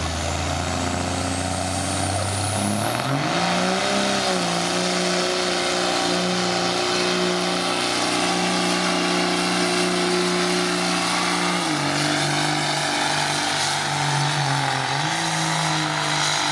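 A pulling truck's diesel engine at full throttle down the track. The revs climb about three seconds in and hold steady, then drop a little about twelve seconds in and waver near the end. A high whine rises in pitch over the first few seconds.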